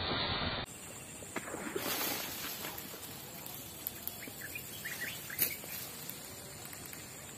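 Outdoor ambience: a steady soft hiss, with a few short bird chirps about four to five seconds in and a sharp click just after. A louder rush of noise cuts off suddenly under a second in.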